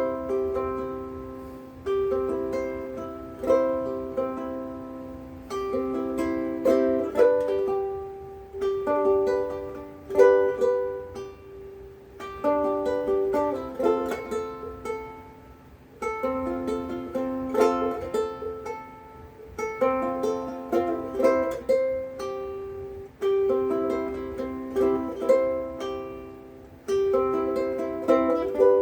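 Ukulele strung with Worth Brown strings, fingerpicked solo: loose noodling of plucked notes and chords in short phrases, each ringing out and decaying before the next begins.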